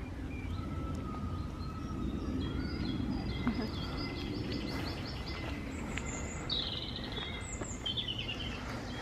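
Songbirds singing, several short chirped phrases and quick trills, over a steady low rumble.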